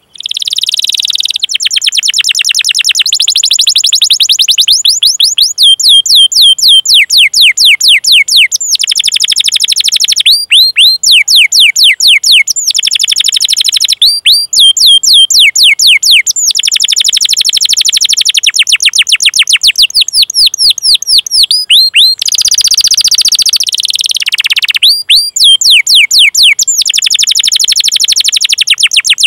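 Domestic canary singing a long, loud song of fast repeated chirps ('cuit cuit') and rolling trills, with only brief breaks between the runs.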